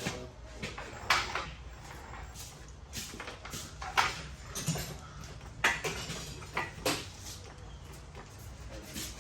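Irregular sharp knocks and clinks, four louder ones spread across several seconds, over a low steady hum.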